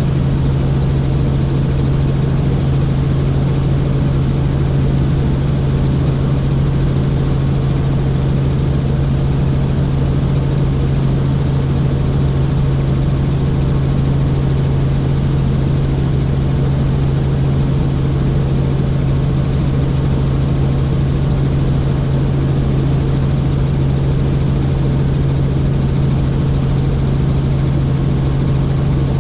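Helicopter in flight heard from inside the cabin: a steady, loud drone of engine and rotors with a strong low hum that does not change.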